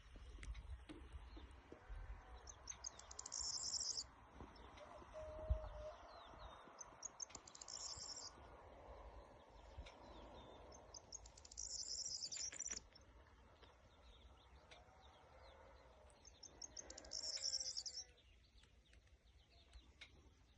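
A songbird singing a short, high, rapid trilling phrase about four times, every four to five seconds, with fainter chirps from other birds in between.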